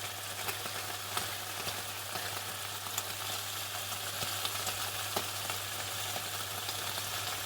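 Chicken frying in hot oil: a steady sizzle with many small crackles and pops, over a steady low hum.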